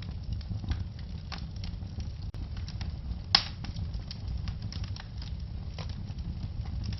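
Wood fire crackling over a steady low rumble of flames, with scattered small pops and one louder pop about midway.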